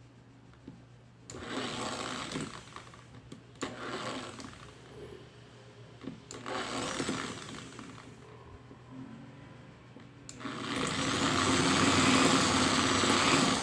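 Small electric mini drill press motor running in short bursts: three brief runs of about a second each, then a louder, longer run of about three seconds near the end.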